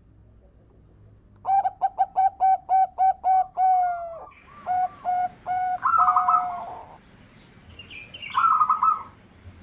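Zebra dove (perkutut) cooing: a quick run of short, clipped coo notes, about four a second, then a few slower notes, followed near the end by a higher, trilled phrase.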